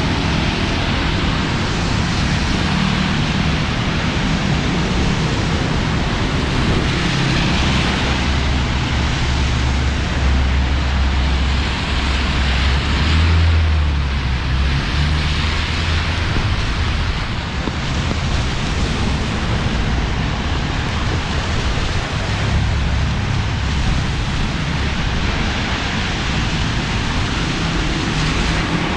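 Heavy monsoon rain pouring down in a steady, loud hiss, with a low rumble of road-traffic engines underneath.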